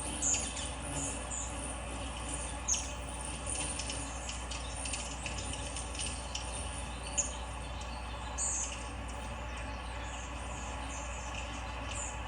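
Small birds chirping in short, scattered calls over a steady background hum.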